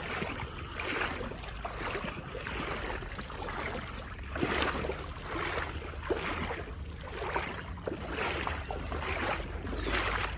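Legs wading through knee-deep floodwater, a rhythmic swish and slosh with each stride, roughly one a second or a little faster.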